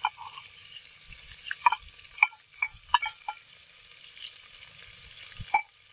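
Ginger-garlic paste sizzling in hot oil in a clay cooking pot, with a steady high hiss. A steel spoon scraping it from a steel bowl and stirring it clinks sharply several times, mostly in the first half.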